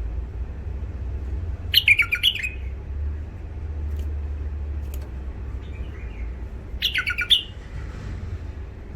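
Bulbul giving two short, harsh chirping song phrases, one about two seconds in and another about five seconds later, over a steady low rumble.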